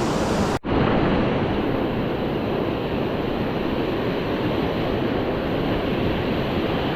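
Ocean surf washing ashore, with wind buffeting the microphone: a steady rushing noise. The sound drops out for an instant about half a second in, then carries on with less hiss on top.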